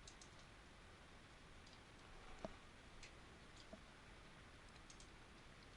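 Near silence with faint, scattered computer mouse clicks, one slightly louder about two and a half seconds in.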